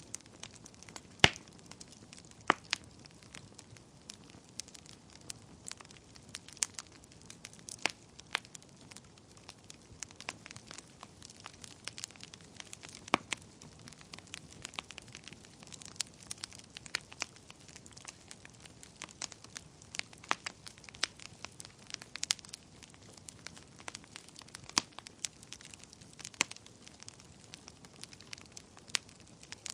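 Wood fire burning in a fireplace, crackling and popping at irregular intervals, with a sharp pop about a second in.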